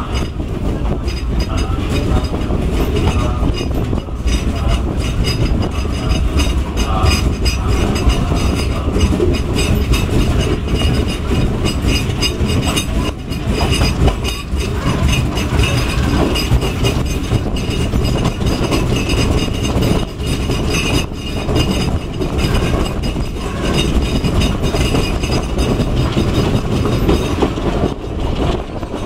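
Passenger train running along the track, heard from an open window of the moving carriage: a loud steady rumble with many short clacks of the wheels.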